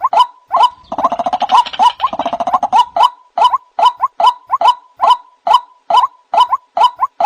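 White-breasted waterhens calling: a steady run of harsh "kruwok" notes, about two to three a second. A fast gurgling chatter joins them from about one second in until nearly three seconds.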